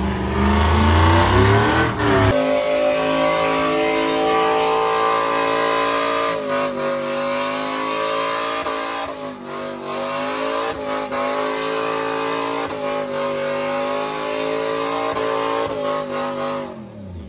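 An engine held at high revs, its pitch steady with a few brief dips, dropping away as it is let off near the end.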